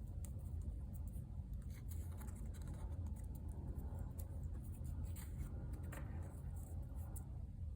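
Faint rustling, light scratches and small taps of paper scraps being handled and arranged by hand, over a steady low hum.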